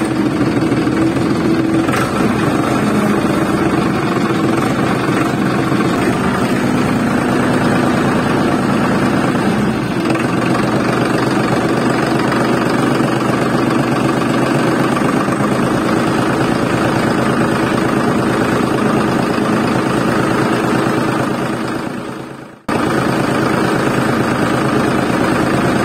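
Steady engine running sound for a DIY mini toy tractor as it drives. About 22 seconds in it fades, cuts out briefly, then starts again at full level.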